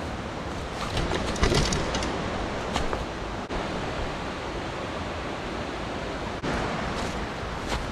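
Steady rush of water in a mountain stream gorge, with a few brief knocks or scrapes about a second and a half in.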